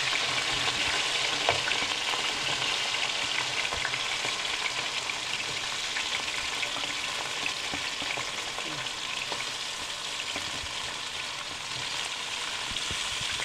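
Diced potatoes, peas and tomatoes dropping into hot oil and cumin in a karahi, sizzling with a steady frying hiss and a few light crackles as they are scraped off a plate with a wooden spatula. The sizzle gradually eases off as the oil cools under the added vegetables.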